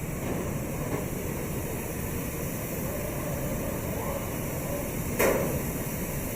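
Steady factory-floor background noise, with a single sharp knock about five seconds in.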